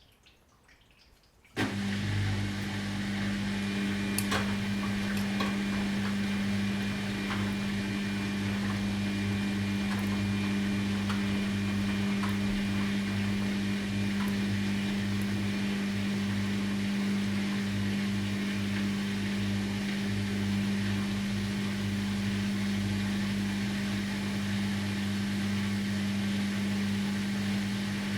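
Washing machine cutting in abruptly about two seconds in with a steady, even mechanical hum, with no rise in pitch, and a few faint clicks, running level until it cuts off at the end.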